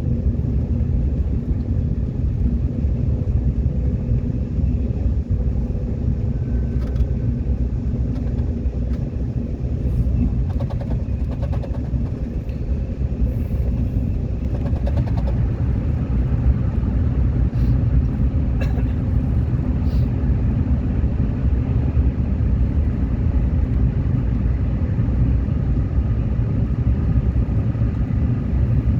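Subway train running along the track, a steady low rumble of wheels and running gear heard from on board, with a few faint clicks in the middle.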